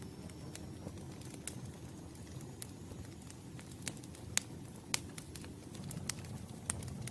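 Campfire crackling: scattered sharp snaps and pops over a low steady rumble of the burning wood, with a faint high whistle that fades out about three seconds in.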